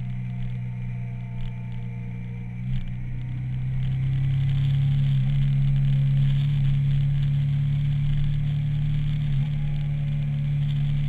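Motorcycle engine running at steady revs while riding, a steady low hum with a few brief dips, growing a little louder about four seconds in.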